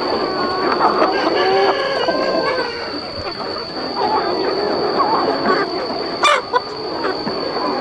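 A large flock of chickens calling and clucking at once, many short calls overlapping. A steady high-pitched tone runs under it, and a sharp click comes about six seconds in.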